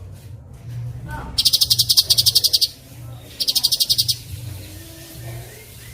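Songbird song of fast rolling trills, the kind played as masteran to train white-rumped shamas: two loud bursts of rapidly repeated high notes, about ten a second, the first starting about a second and a half in and lasting over a second, the second shorter near the middle.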